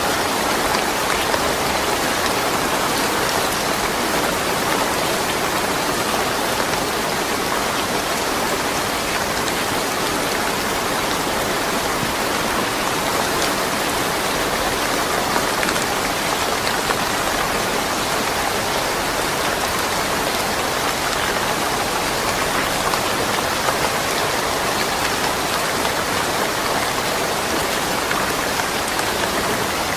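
Steady rain falling, an even patter of drops on surfaces with no thunder.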